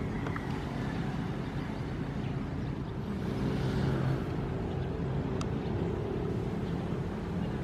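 Ocean surf: a steady low rumble of waves, with one wave washing in and fading about three to four seconds in.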